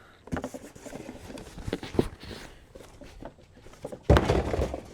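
Cardboard packaging being handled and pulled apart: a few sharp knocks, then a louder scraping rustle near the end.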